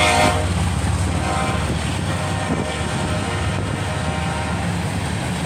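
Fast freight train rolling past at speed: a steady rumble and rush of the cars on the rails. A horn chord cuts off about half a second in.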